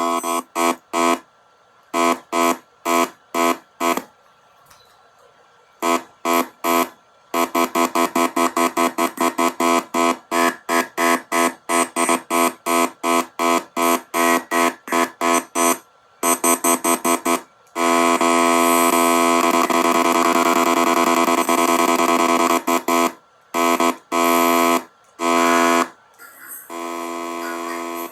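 Electronic buzzer tone sounding in trains of short beeps, in places quick at about three a second, broken by short pauses, with one long unbroken buzz of about five seconds past the middle.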